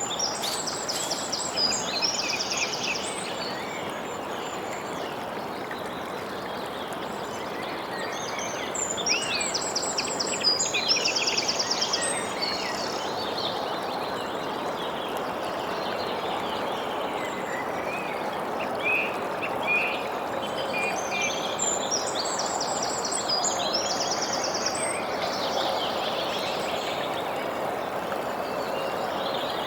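A songbird sings a high, fast-trilled phrase three times, about every ten seconds, over a steady rushing background noise.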